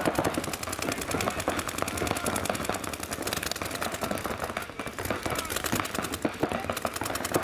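Paintball markers firing rapid streams of shots, a fast, steady rattle of clicks that carries on throughout.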